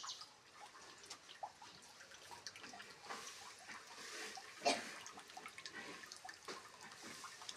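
Faint, scattered soft wet dabs and small clicks from wet mud being worked by hand onto a clay chulha (traditional cooking stove) during its repair. A louder, sharper knock comes a little under five seconds in.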